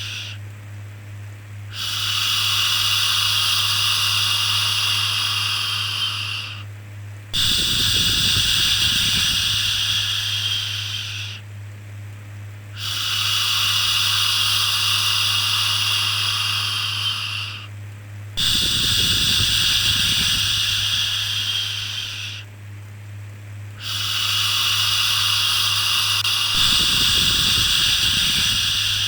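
Shushing 'shhh' sound, long and hissing, repeated about every five seconds with a short pause between each, five times in all, over a steady low hum.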